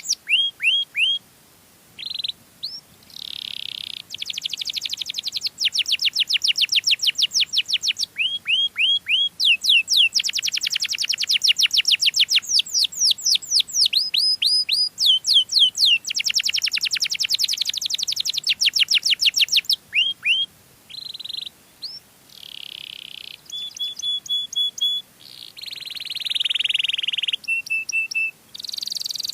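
Domestic canary singing a long song of rapid trills. Each phrase is a fast run of repeated notes, and the bird switches from one phrase to the next with brief pauses.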